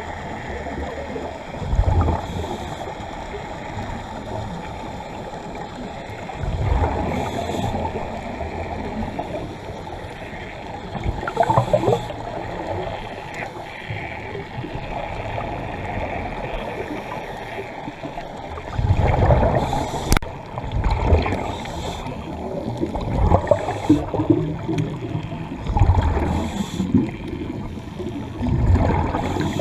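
Underwater gurgling of a scuba diver's exhaled bubbles from the regulator, coming in loud low surges every few seconds over a steady muffled water noise.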